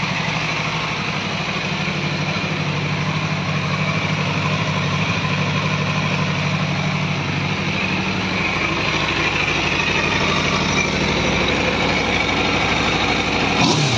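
2021 Aprilia RSV4 Factory's V4 engine idling steadily through its stock exhaust, with a throttle rev starting right at the end.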